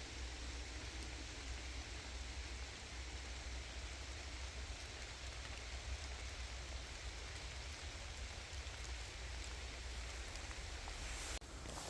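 Steady rain falling, an even hiss of drops that breaks off abruptly near the end.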